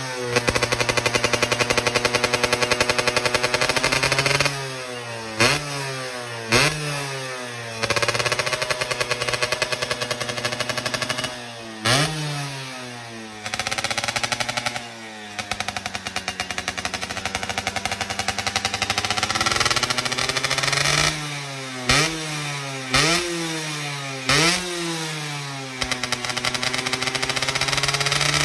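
Yamaha Alfa two-stroke engine breathing through an aftermarket R&R exhaust, revved over and over: quick throttle blips whose pitch rises and falls back, and three long holds at high revs, with lower running between them.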